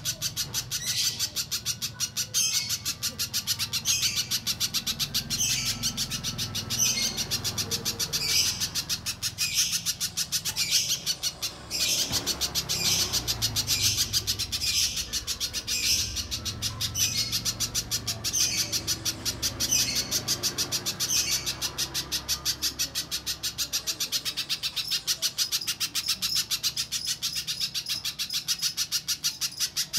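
Spiderhunter (pijantung) song used as a lure recording: a rapid, continuous chatter with sharp high notes repeating about once a second.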